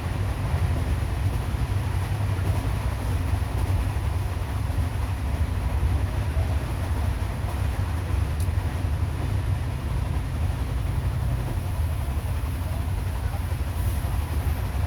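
Passenger train running, a steady low rumble with a lighter hiss above it and no distinct rail-joint clicks.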